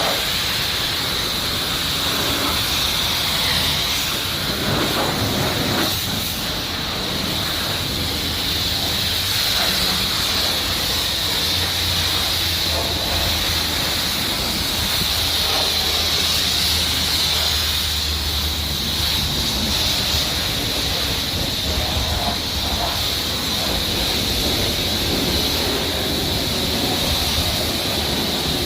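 Steady hiss of a high-pressure water spray from a pressure washer, with a low hum coming in about a third of the way through and fading a few seconds later.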